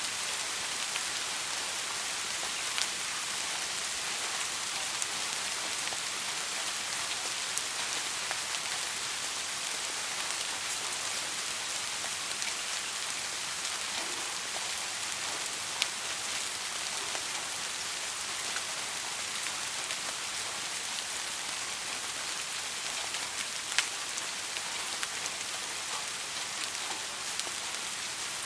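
Steady soft rain falling, a continuous hiss with scattered sharper drop ticks, a couple of them louder, about halfway through and near the end.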